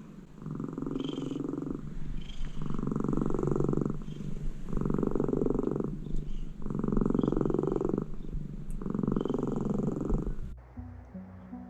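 Domestic cat purring, coming in about five bouts with its breaths, each bout about a second long. The purring cuts off near the end, where acoustic guitar music begins.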